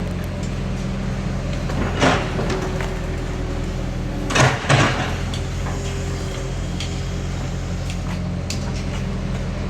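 Bulldozer's diesel engine running steadily, with short metallic clanks about two seconds in and twice more near the middle.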